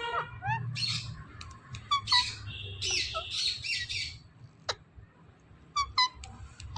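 Pet parrot squawking harshly several times, with the longest squawk in the middle, then a few short sharp chirps near the end.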